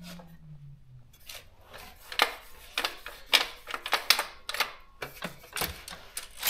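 Irregular sharp clicks and clacks from a Daro 20 typewriter's mechanism as it is handled and cleaned, roughly one or two a second after the first second.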